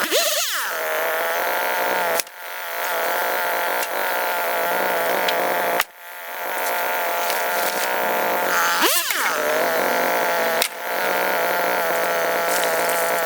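Small engine of a handheld power tool running steadily at high revs. Its pitch swoops down and back up at the start and again about 9 s in, and the sound breaks off abruptly for a moment three times before carrying on.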